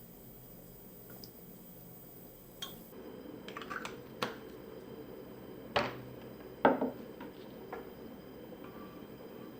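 Kitchen utensils and dishes being handled: a scattered run of light clicks and clinks, with two louder knocks a little past the middle, over a faint steady hum.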